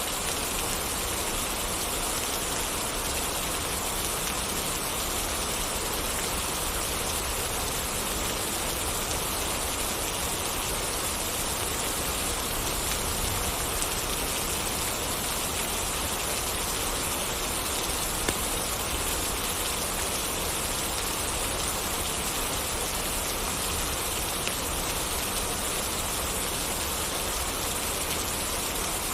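Steady rain falling and pattering on surfaces, an even, unchanging hiss.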